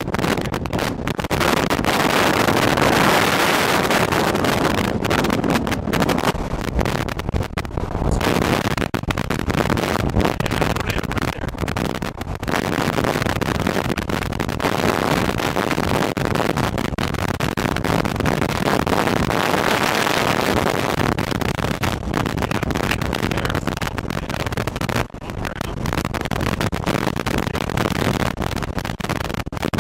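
Strong storm wind buffeting the microphone: a loud, continuous rushing with crackles, swelling in gusts a few seconds in and again around the twenty-second mark.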